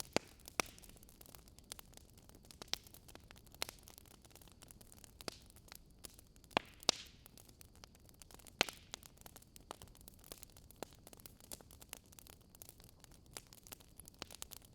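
Campfire crackling: irregular sharp pops and snaps over a faint steady hiss, a few louder pops standing out.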